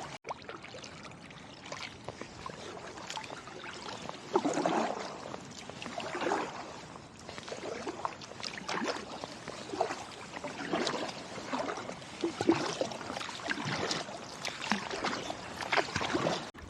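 Kayak paddle dipping and pulling through calm river water, a watery swoosh and drip about every two seconds as the blades alternate in a steady paddling rhythm.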